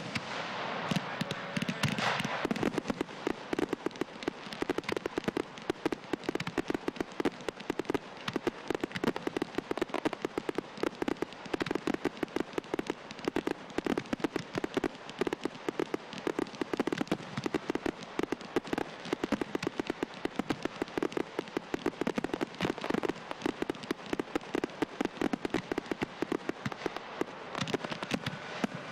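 Frontal firework battery firing, a dense run of sharp pops and crackles many times a second, heavier in the first couple of seconds.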